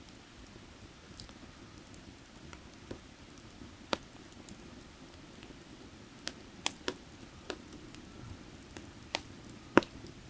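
Burning firewood crackling, with sharp irregular pops scattered through, the loudest near the end, over the steady low rush of a nearby creek.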